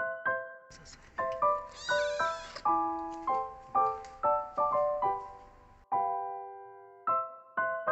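Young kitten mewing once, a high wavering cry of under a second about two seconds in, over gentle piano background music.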